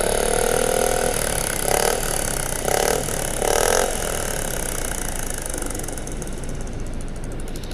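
Recorded exhaust note of a Yamaha XMAX 250 single-cylinder scooter fitted with a ProSpeed aftermarket exhaust, played back: idling, with three short throttle blips between about one and a half and four seconds in, then settling back to idle.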